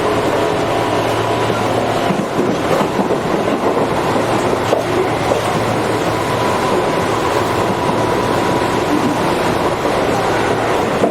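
Tobu 8000 series electric train running, heard from inside the passenger car: steady wheel-and-rail rumble with scattered clicks. The motor hum fades out about a second or two in, leaving the train coasting.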